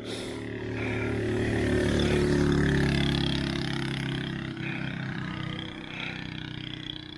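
A motor vehicle's engine passing close on the road. It grows louder to a peak about two to three seconds in, drops in pitch, then fades, over a rumble of wind.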